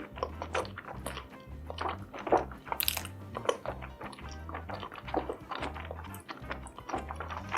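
Close-up eating sounds: chewing, biting and crunching, with frequent wet smacks and clicks, over background music with a steady, repeating bass beat.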